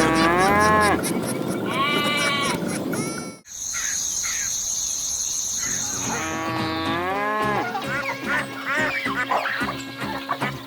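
Animal calls that bend up and down in pitch, over background music, broken by a sudden cut about three and a half seconds in, after which a steady high tone sounds for a couple of seconds before the calls return.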